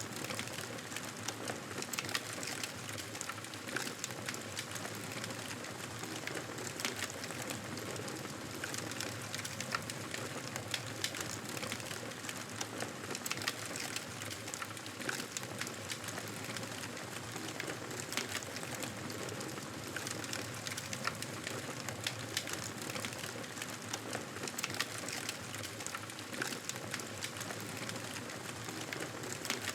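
Wood fire crackling in a fireplace: frequent small sharp pops and snaps over a steady hiss.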